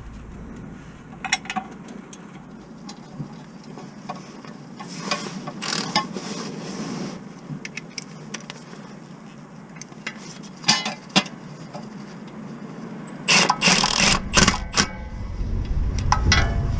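Scattered clicks and knocks with brief scraping noises, as of tools and metal parts being handled during work on a car. The busiest cluster comes about thirteen to fifteen seconds in.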